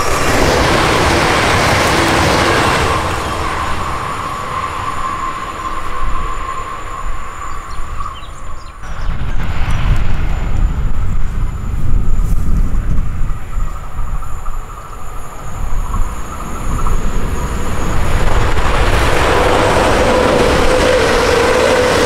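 Train passing close by at speed: loud rush of wheels on rails with a steady high whine through the first few seconds, giving way to heavy rumbling from about halfway, and a steady lower hum rising again near the end.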